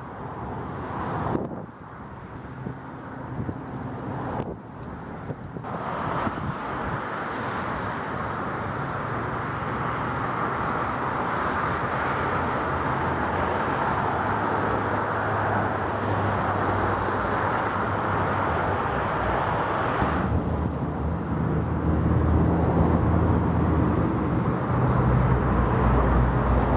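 Outdoor ambience with a motor vehicle's engine and road noise, a steady low hum under a broad rush that grows louder towards the end.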